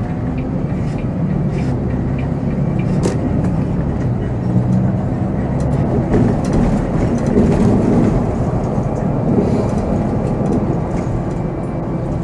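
Volvo B7R coach under way: its diesel engine running with a steady drone that grows heavier for a few seconds around the middle, with scattered rattles and clicks from the coach body.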